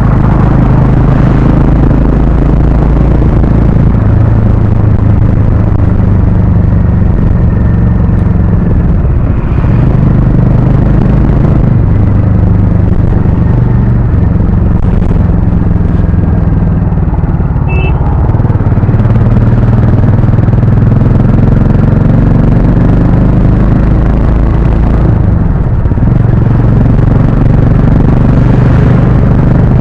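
Harley-Davidson X440's 440 cc single-cylinder engine and stock exhaust under way. The engine note rises and falls with the throttle several times.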